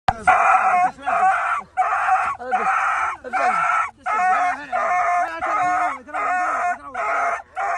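An animal calling over and over, about ten calls of roughly half a second each with short gaps between them.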